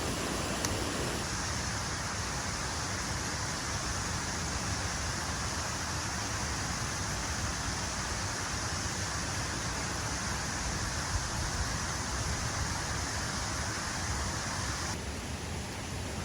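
Steady rush of a waterfall and flowing water. Its tone shifts abruptly about a second in and again near the end, as the sound changes from one shot to the next.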